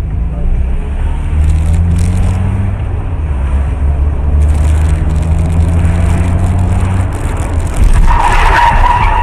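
A car driving with loud engine and road rumble, its engine note slowly rising as it picks up speed. About eight seconds in, a louder, high-pitched sound cuts in over the rumble.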